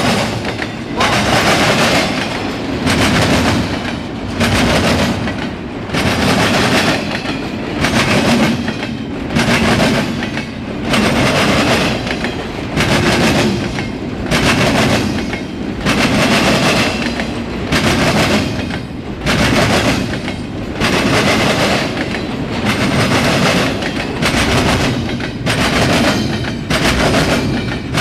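CSX intermodal freight train's cars rolling past, the steel wheels clacking over the rail joints in a steady rhythm, swelling and dipping about every second and a half as each car goes by.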